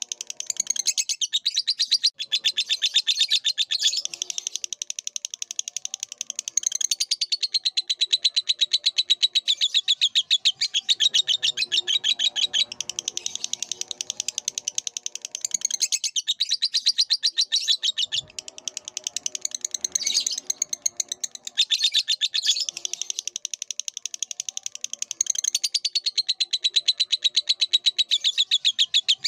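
Lovebird singing a long, fast chattering run of high chirps, broken by short pauses every few seconds.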